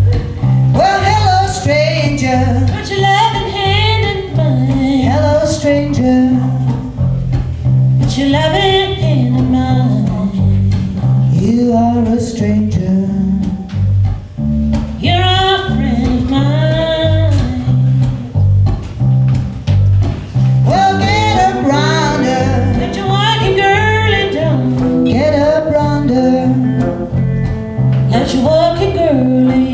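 Live band music: singing over guitar and a walking bass line that steps about twice a second.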